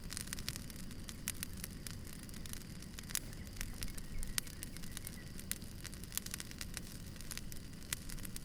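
Campfire crackling: burning wood giving off many sharp, irregular pops and snaps over a low steady rumble.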